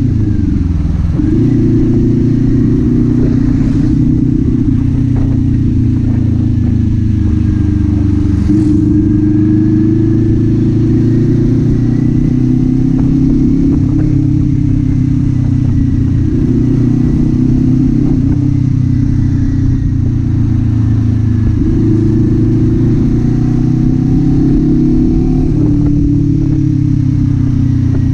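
Kawasaki Z400 parallel-twin engine and exhaust under way, the engine note rising and falling with throttle and gear changes.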